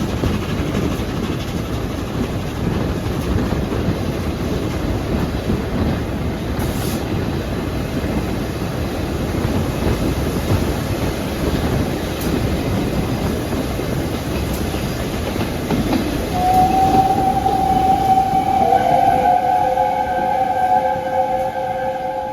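Double-headed steam train with locomotives 60163 Tornado and 32424 Beachy Head running by with a steady rumble of wheels and working engines. About sixteen seconds in, a steam whistle sounds and is held, and a second, deeper tone joins it a couple of seconds later.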